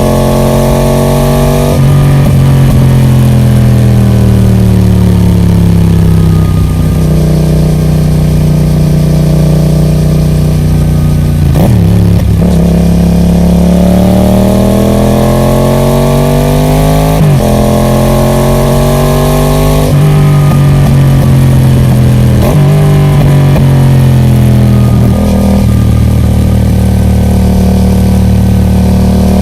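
Yamaha MT-07's 689 cc parallel-twin engine through a Roadsitalia Special Carbon aftermarket exhaust, running under way. The revs climb and fall several times, with sudden breaks in pitch like gear changes.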